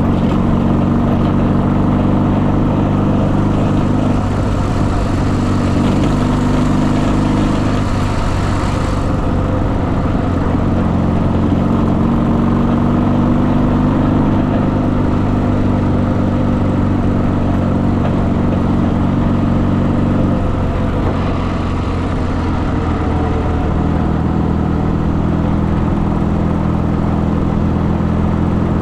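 Motorcycle engine running at a steady speed, its note shifting briefly a few seconds in and again about two-thirds of the way through.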